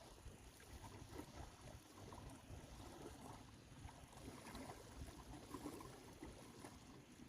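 Near silence: faint outdoor ambience with a low rumble and scattered small ticks.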